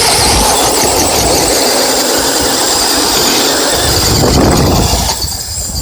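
Electric RC trucks running hard against each other in a rope pull: loud, steady motor and drivetrain noise that starts suddenly and cuts off about five seconds in.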